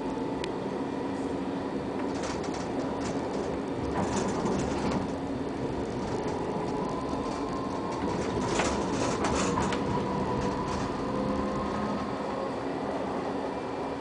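Ex-Frankfurt tram running on its rails: a steady rumble under a faint whine that rises slowly in pitch, with bouts of clattering rattles about two seconds in and again around eight seconds.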